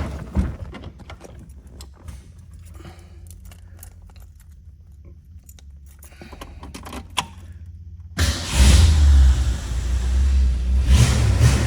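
Keys jingling and small clicks, then about eight seconds in the 1966 Ford Mustang's 289 V8 engine starts and runs with a loud low rumble.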